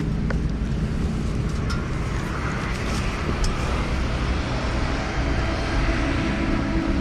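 Royal Enfield Himalayan motorcycle running on the road, with a steady, loud rush of wind and road noise over the low engine rumble, setting in abruptly at the start.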